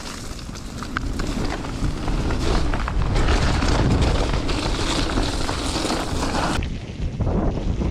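Wind buffeting the microphone of a camera on a moving bike, over a low rumble with scattered sharp clicks and rattles from the bike on the dirt trail. The highest part of the noise drops away sharply a little before the end.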